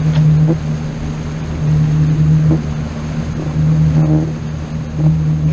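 Engine running steadily with a low drone that swells and eases every second or two.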